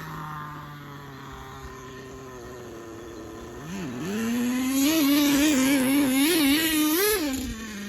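Small two-stroke nitro glow engine of a 1/10 FTX Zorro nitro trophy truck idling, then revved with a series of quick throttle blips for about three seconds before dropping back to idle near the end.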